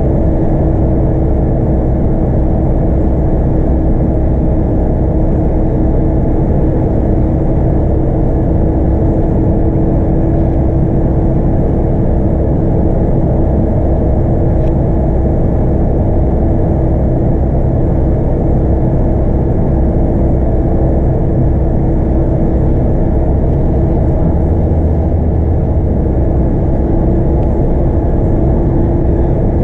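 A Scania K230UB bus with its 8.9-litre five-cylinder DC9 diesel and ZF Ecomat automatic, running steadily under way. A constant hum and low rumble mix with road noise, heard from inside the passenger cabin.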